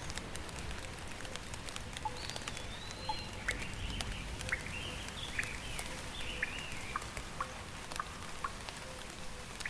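Steady rain with individual drops pattering close by. A bird sings a series of short chirps from about two seconds in until near the end.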